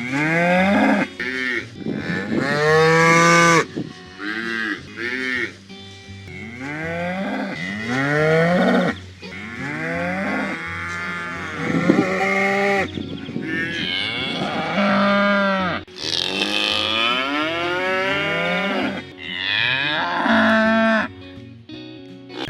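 Cattle mooing, a string of calls in quick succession, each rising and then falling in pitch, some short and some drawn out.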